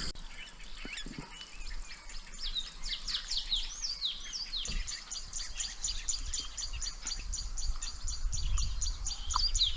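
Wild birds calling. A run of quick, high, descending whistles comes about two to four seconds in, then a rapid, even series of short high notes, about five a second, through the rest, over a faint low rumble.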